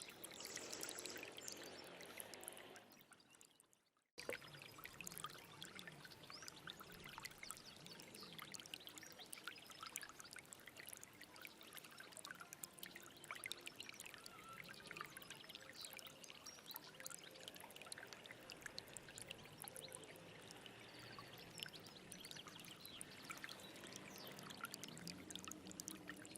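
Stream water running and babbling steadily. About three seconds in it fades away to silence, then cuts back in suddenly a second later.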